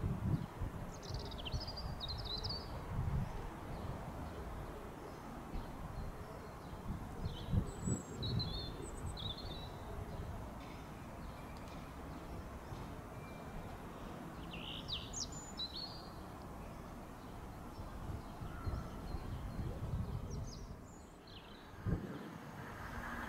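Small birds chirping in short clusters of high notes about every five to six seconds, over low, uneven background noise.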